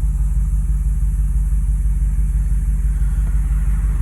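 Lexus GX470's 4.7-litre V8 through an aftermarket R4T catback exhaust, running at light, steady throttle with a low, even drone. It is heard from inside the cabin with the windows down.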